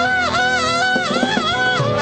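A live church band plays an instrumental passage. A wind-instrument melody of quick, bending notes runs over steady sustained chords.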